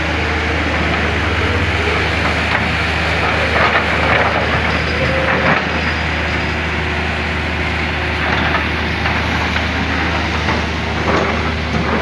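Hydraulic excavator's diesel engine running steadily with a low hum, while scattered knocks and cracks sound as the machine digs and breaks through soil and wood debris.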